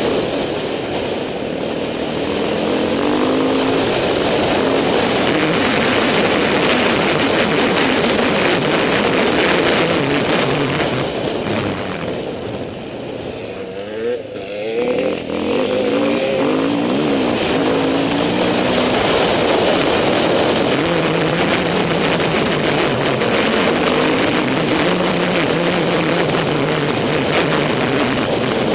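Yamaha WR450F trail bike's single-cylinder four-stroke engine under way, heard from the rider's helmet camera. The engine pitch repeatedly rises and falls as the throttle is opened and eased off. About halfway through it goes quieter for a couple of seconds, with the throttle closed, then picks up again.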